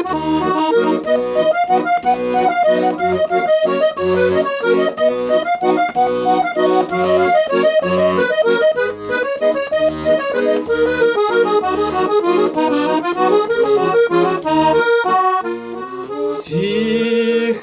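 Accordion playing an instrumental interlude of a hymn tune: a stepping melody over sustained chords, with bass notes pulsing at a steady beat.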